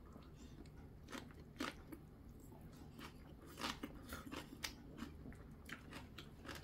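A person chewing green onion kimchi (pa-kimchi) with faint crunching and wet mouth clicks at irregular intervals.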